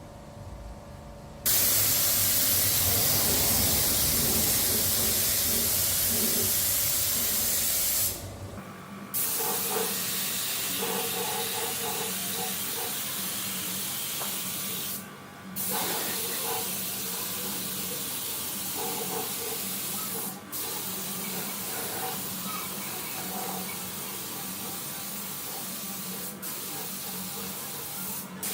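Compressed-air spray gun hissing in long bursts. It starts about a second and a half in and breaks off briefly a few times, at roughly five-second intervals.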